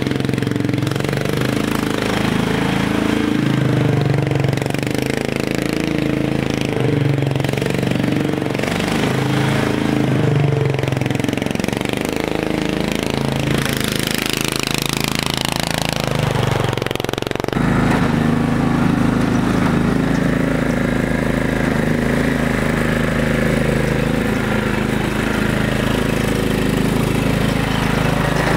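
Garden tractor's 16 hp cast iron Briggs & Stratton engine running with an uneven, pulsing note. A falling whine sweeps down from about 14 seconds in. At about 17 seconds the sound changes abruptly to a steadier, deeper drone.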